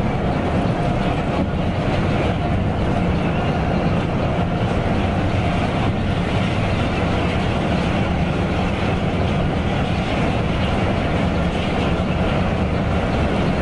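Mercedes-Benz OC 500 RF 2542 coach under way, its engine a steady low drone mixed with road and tyre noise.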